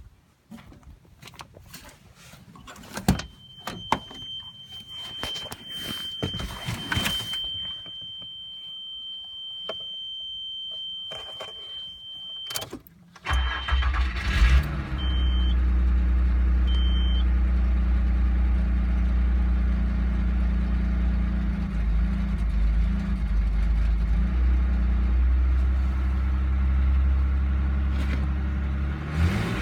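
Clicks and knocks, with a steady high-pitched warning tone for about ten seconds. About 13 seconds in, the 1995 Nissan Pathfinder's 3.0-litre V6 is started and settles into a steady idle, with a few short beeps just after it catches; near the end the revs begin to rise.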